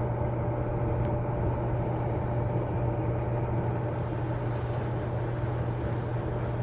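A steady low machine hum with a fainter high tone over an even rush of air, unchanging throughout.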